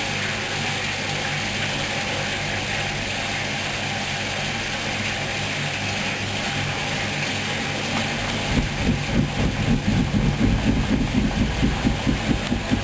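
Hoover washing machine running a wash cycle: a steady motor hum and hiss, then, from about eight and a half seconds in, a rhythmic thumping of about three beats a second as the drum turns the wet load.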